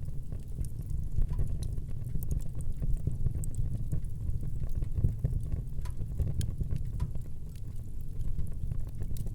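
Wood fire burning in a fireplace: a steady low rumble of flame with frequent small, irregular crackles and pops.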